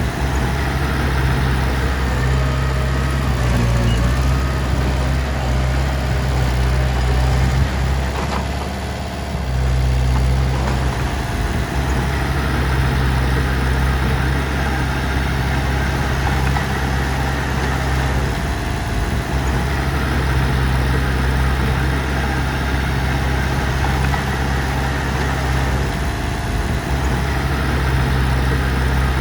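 Heavy diesel machinery engine running steadily with a deep, even hum, briefly easing off about nine seconds in.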